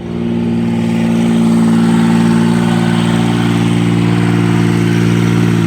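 Kubota pony motor running steadily on the bucket truck, getting louder over the first second or so and then holding an even pitch.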